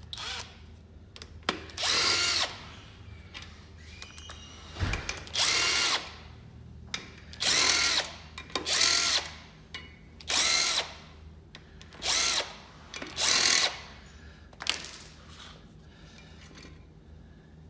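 Handheld power drill run in seven short bursts, each one spinning up and winding back down in pitch, with a low thump about five seconds in.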